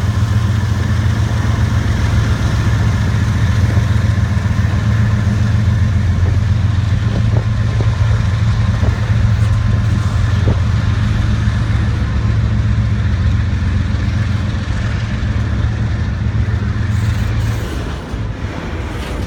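Diesel-electric locomotives of a Norfolk Southern container train, led by a GE ES44DC with its V12 diesel, running with a steady low engine sound; the level drops near the end.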